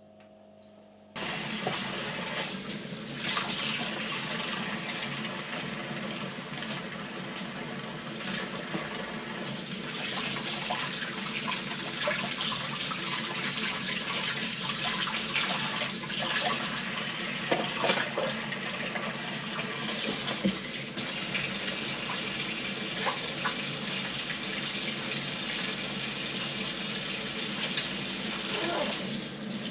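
Kitchen tap running into a sink, starting about a second in, with a few light clinks along the way. The flow turns steadier about two-thirds of the way through.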